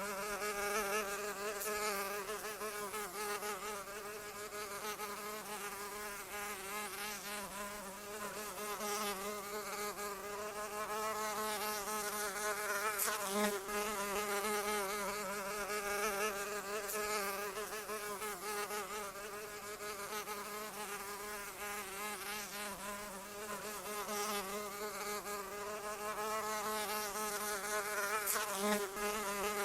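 A flying insect's wings buzzing continuously, a fly or mosquito hovering close by. The pitch wavers slightly up and down as it moves.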